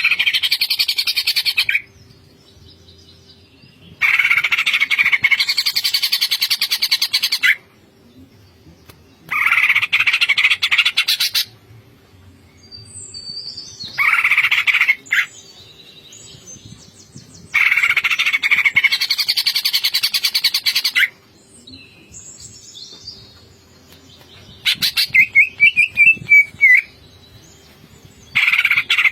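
Cucak ijo (green leafbird) singing in loud bursts of rapid, chattering 'ngentrok' notes, mixed with mimicked phrases. There are about seven bursts, each lasting one to three and a half seconds, with short pauses between them.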